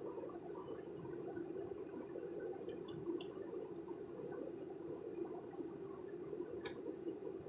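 Steady low hum of a car running at idle while it warms up after a cold start, with a few faint clicks.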